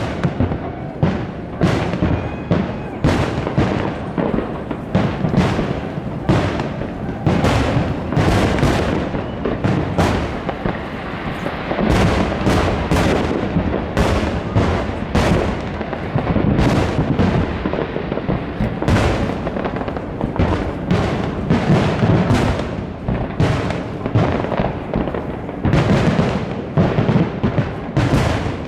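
Fireworks display: aerial shells bursting in a continuous barrage of bangs and crackles, several a second, with no pause.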